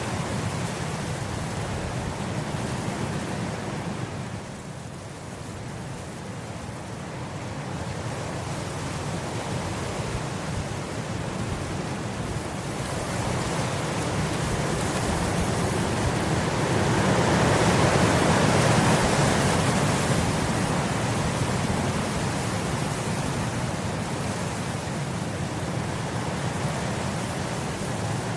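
Wind blowing across grass in gusts: a steady rushing that eases off about five seconds in, then builds to a strong gust past the middle before settling again.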